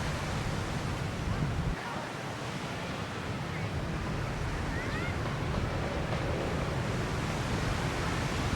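Ocean surf washing on a beach, a steady noisy hiss, with wind buffeting the microphone; the low wind rumble drops away about two seconds in.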